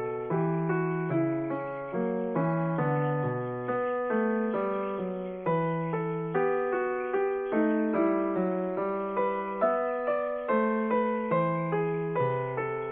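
Background piano music: a slow, gentle melody with chords, about two notes a second, each note struck and then dying away.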